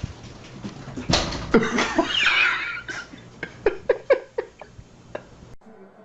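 A thump about a second in, then a high gliding animal cry and a run of about five short yelps; the sound cuts off suddenly near the end.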